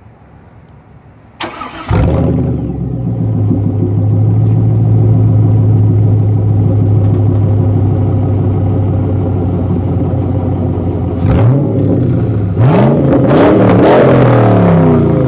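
1999 Chevrolet Camaro Z28's 5.7 L LS1 V8 through an SLP Loudmouth 1 cat-back exhaust, cranked and catching about two seconds in, then idling loudly and steadily. A short blip of the throttle about 11 s in, then a couple of revs rising and falling near the end.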